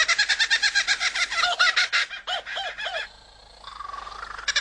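Kookaburra-style laughing call: a fast, cackling run of repeated notes at about ten a second. It breaks off about three seconds in and starts up again near the end.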